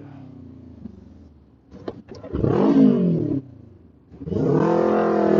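Kawasaki Ninja 400 parallel-twin engine: a quick rev that falls away about two seconds in, then a louder, steady engine note near the end that stops abruptly.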